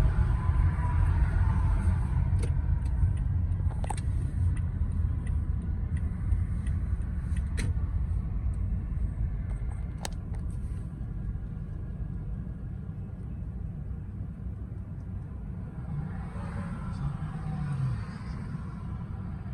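Freight cars of a Union Pacific grain train rolling past: a low rumble with a few sharp clicks from the wheels, fading gradually, with a brief swell near the end.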